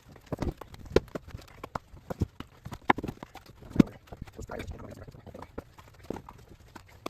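Split walnut firewood being stacked: a string of irregular wooden knocks and clunks as pieces land on one another, the loudest about a second in and just before four seconds in.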